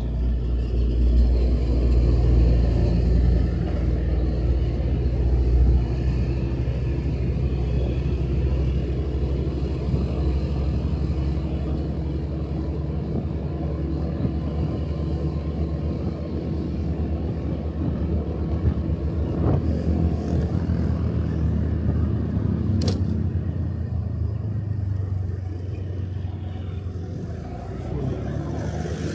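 Motorcycle engine running steadily while riding, with road and wind noise on the camera's microphone. A single sharp click sounds about three-quarters of the way through.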